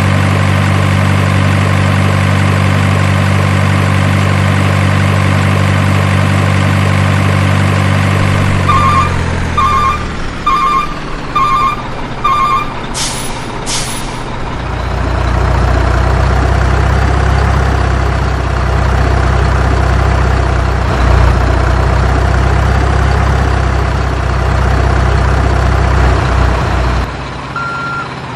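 Truck sounds: a diesel engine idling steadily, then winding down while a reversing alarm beeps five times, about once a second. Two short air-brake hisses follow, then a low, steady engine rumble, and near the end a higher-pitched reversing beep starts repeating.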